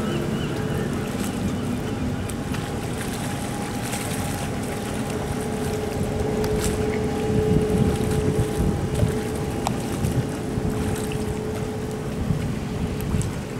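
Low, steady rumble of a container ship's engine with a faint steady hum that grows stronger midway, and wind buffeting the microphone.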